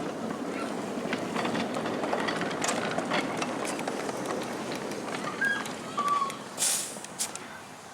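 Miniature railway train running along the track, a steady clatter with many small clicks, and a short burst of hiss a little over six seconds in.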